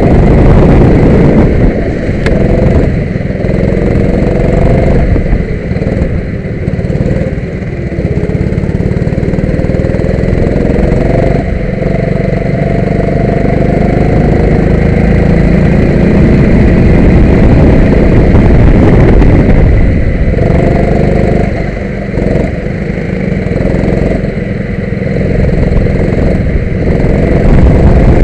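Go-kart engine running hard. Its pitch drops several times as the throttle is lifted for corners, then climbs again as the kart accelerates back up through the revs.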